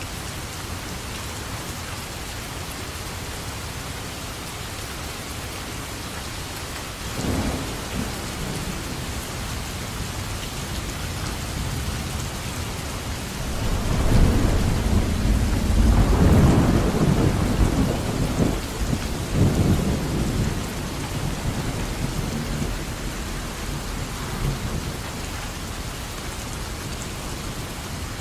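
Steady rain with thunder: a short clap about a quarter of the way in, then a long low rolling rumble that builds from about halfway and fades back into the rain.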